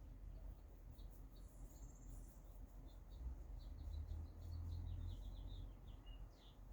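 Faint chirping of small birds: scattered short high chirps, then a quick run of them in the second half. A low rumble swells under it for a couple of seconds in the middle.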